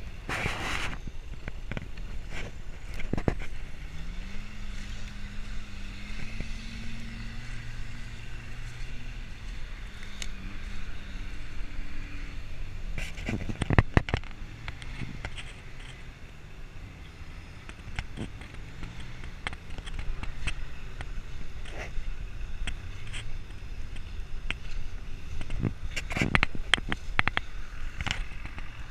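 Motor vehicle engine running under changing load, its pitch rising and falling several times, with repeated sharp knocks and rattles, loudest in clusters about halfway through and near the end.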